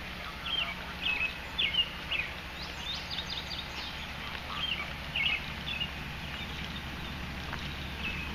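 Songbirds chirping in short, repeated calls over a steady low hum.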